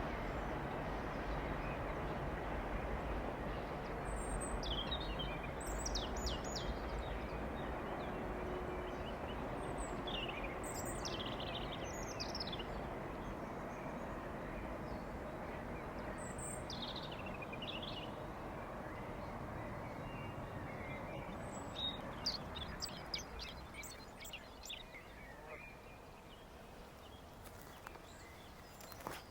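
Rumble of a passing train slowly dying away, with small birds chirping in short bursts over it.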